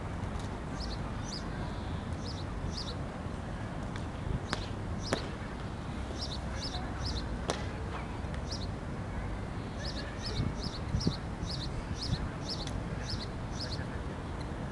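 A small bird chirping over and over in quick pairs of short high notes, over a steady low outdoor rumble, with a few sharp clicks in the middle.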